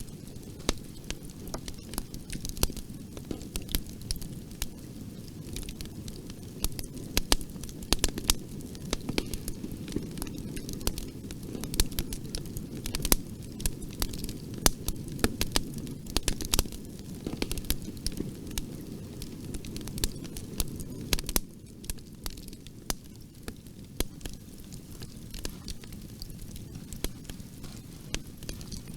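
Bonfire burning with a low steady rumble and frequent sharp, irregular crackles and pops of burning wood.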